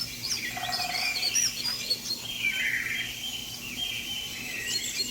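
Several songbirds chirping and singing, with many short whistled notes overlapping one another.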